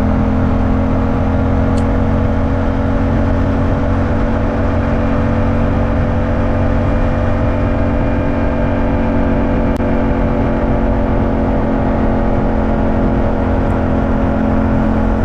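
Yamaha 689 cc parallel-twin motorcycle engine running at a steady cruise, its pitch holding nearly constant, under heavy wind and road noise.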